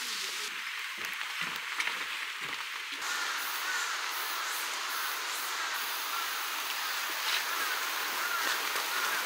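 Steady hiss of light rain on foliage, with faint short chirps repeating about twice a second from about three seconds in.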